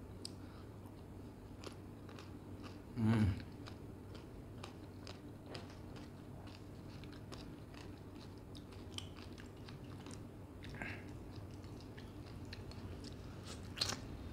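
Close-miked chewing and biting of mutton boti (tube-shaped pieces of mutton offal) in curry: a run of wet mouth clicks and smacks. A louder, brief low sound comes about three seconds in and a sharp click near the end.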